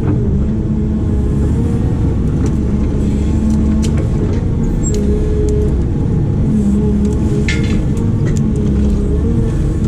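Diesel engine of a heavy digging machine running steadily under load, with a few sharp knocks and a brief high scrape about seven and a half seconds in.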